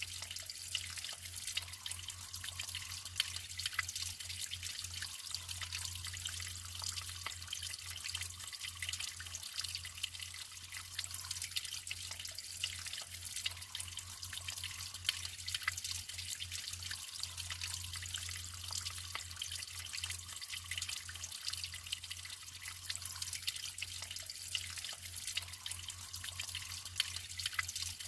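Natural water flowing and trickling steadily, with many small irregular splashes and drips over an even hiss.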